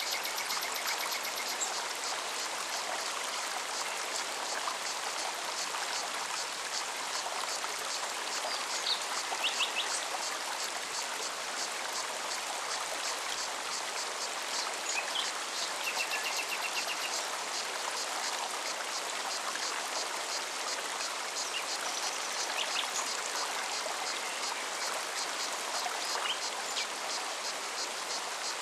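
Mountain stream running steadily over rocks, a continuous splashing hiss, with a few short bird chirps now and then.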